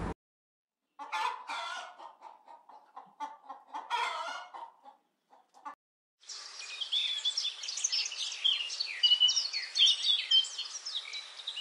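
A chicken clucking in short, broken calls for several seconds. About six seconds in it gives way to a dense chorus of high, rapid songbird chirping.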